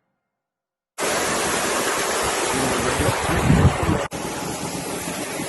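A steady, loud rushing noise outdoors, starting abruptly about a second in after silence. It briefly cuts out about four seconds in, then carries on a little quieter.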